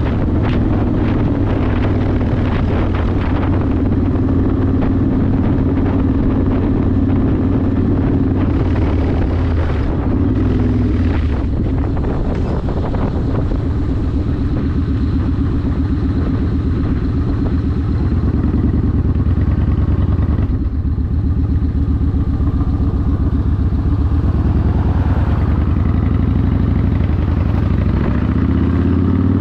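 Yamaha Warrior 1700 V-twin with a custom exhaust running under way, a steady, loud engine note that changes with the throttle. The note dips briefly about two-thirds of the way through, then picks up again.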